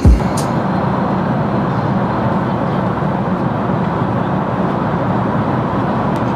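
Airliner cabin noise in cruising flight: a steady, even rush that does not change.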